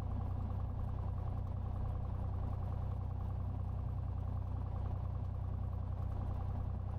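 Cessna 182's six-cylinder piston engine and propeller idling steadily, a constant low drone heard from inside the cabin.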